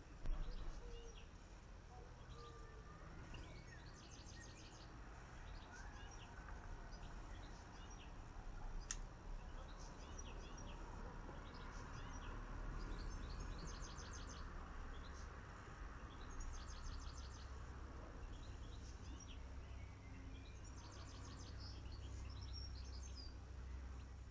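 Small garden birds chirping and twittering in short repeated trills, over a steady low background rumble. A sharp knock sounds right at the start, and a faint click comes partway through.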